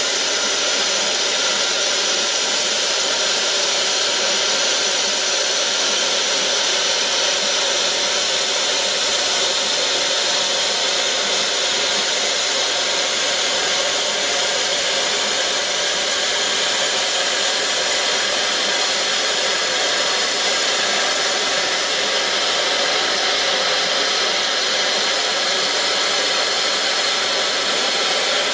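Steam locomotive Tornado, a Peppercorn A1 Pacific, giving off a loud, steady hiss of escaping steam, with no exhaust beats.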